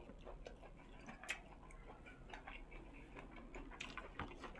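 Quiet close-up chewing: a run of soft irregular mouth clicks and smacks, with a sharper click about a second in and a few more near the end.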